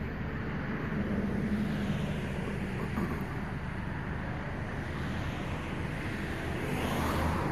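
Steady vehicle road noise with a low rumble, swelling louder near the end.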